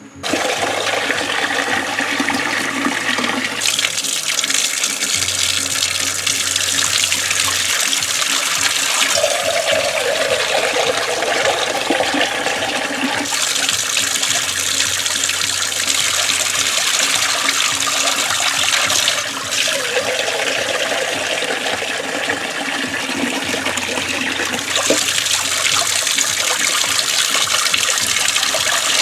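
Water running hard from an outdoor sink's tap and splashing as hair is rinsed under it. It starts suddenly and then runs on steadily, its tone shifting now and then as the stream lands differently.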